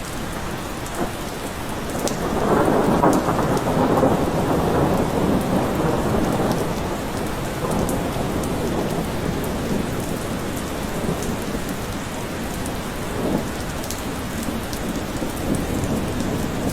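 Steady rain falling in a forest. About two seconds in, a rolling rumble of thunder swells up and fades away over the next several seconds.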